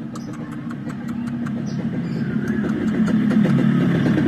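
A motor vehicle's engine running and growing steadily louder, as if approaching, with a scatter of sharp clicks in the first half.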